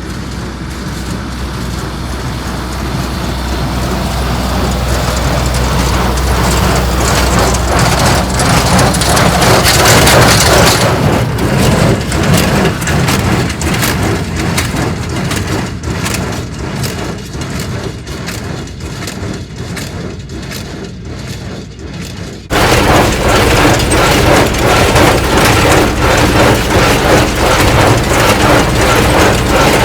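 Tractor running with a small square hay baler at work, its plunger knocking in a steady rhythm. It grows louder over the first several seconds, and about two-thirds of the way through it switches suddenly to a louder stretch of the same running.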